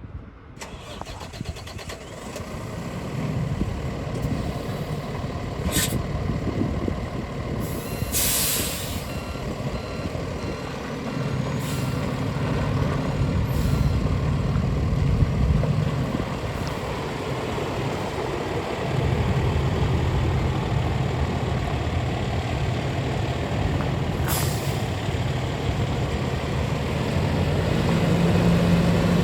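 Freightliner 108SD cement truck's diesel engine running, swelling up over the first few seconds, with engine speed rising for a few seconds midway and again near the end. Short bursts of air hiss from the truck's air system come about five times, the longest about eight seconds in.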